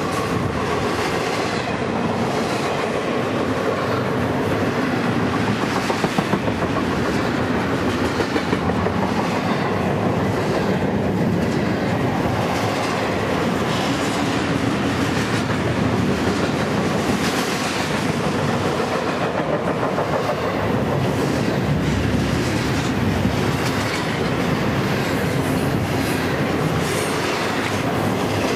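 BNSF double-stack intermodal freight train passing close by: a steady, loud rolling noise of the well cars' wheels on the rails, with repeated clicks as the wheels pass.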